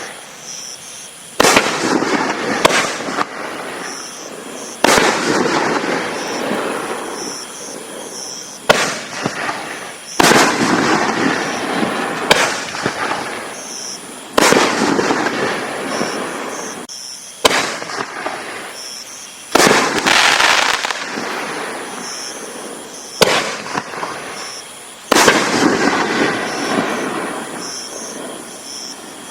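Consumer fireworks cake with 4-inch tubes firing shell after shell: a sharp report every one to three seconds, about a dozen in all, each followed by a dense crackle that fades away.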